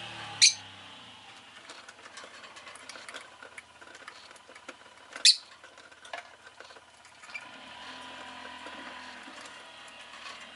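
Rosy-faced lovebird giving two short, sharp, loud chirps about five seconds apart, with light clicking and tapping between them.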